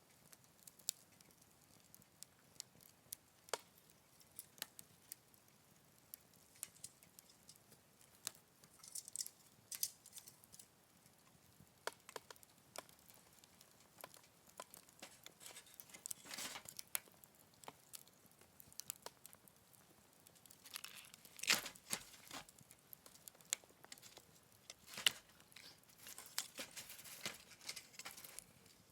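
Wood fire crackling in a Picogrill 398 fire pit: irregular soft pops and snaps, with a few louder bursts of crackles about halfway through and again later.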